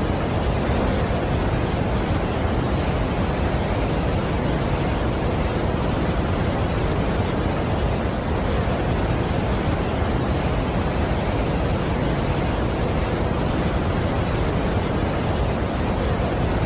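Niagara Falls waterfall: the steady rush of a large volume of falling water, an even, unbroken noise, heaviest in the low end, with no separate events.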